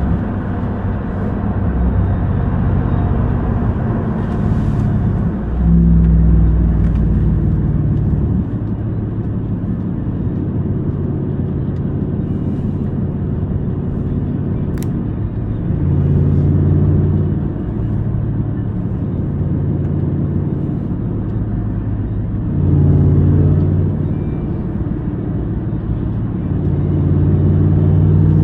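Supercharged V8 of a 2021 RAM 1500 TRX pickup driving at a steady pull, with brief surges of acceleration about five seconds in, around sixteen and around twenty-three seconds, and a rise in engine speed near the end.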